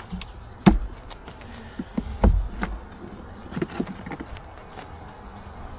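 Honeybees buzzing around an open hive, with several sharp knocks and clicks from handling the hive.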